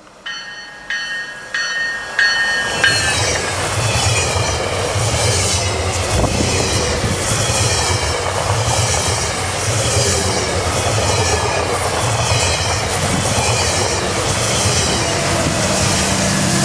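GO Transit diesel commuter train sounding its horn in four short blasts as it approaches, then passing close by. The pass is a loud steady rumble with rhythmic clatter of wheels over the rail joints and high squealing tones that slide down in pitch.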